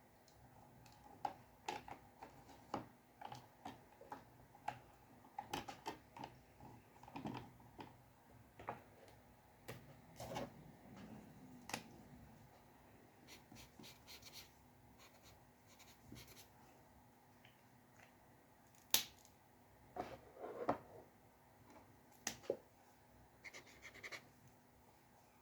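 Dip pen nib working on paper: irregular light taps and ticks with short scratching strokes, over a faint steady hum.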